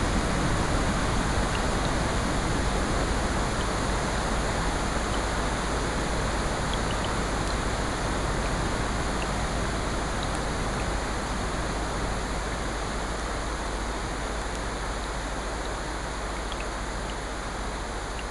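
Steady mix of rain and ocean surf, a dense even hiss with a few faint small ticks, slowly getting quieter.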